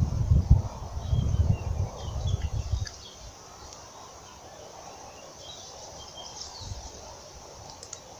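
Birds chirping in short high calls over steady rural outdoor ambience, with a loud low rumble for the first three seconds that then stops.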